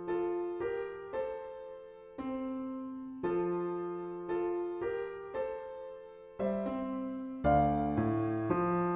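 Solo piano played back from a MuseScore 4 MIDI score: chords struck one after another, each left to ring and fade. About six and a half seconds in, lower bass notes join and the playing grows louder and fuller.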